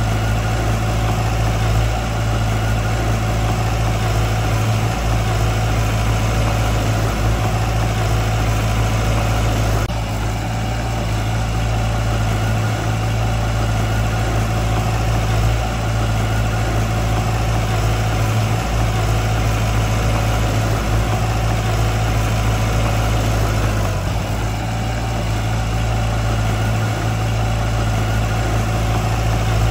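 Heavy construction machine's diesel engine running steadily at a constant speed, a deep low drone with small dips in level about ten seconds in and again near twenty-four seconds.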